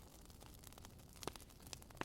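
Burning firewood crackling faintly: scattered small pops over a low hiss, with a sharper pop about a second and a quarter in.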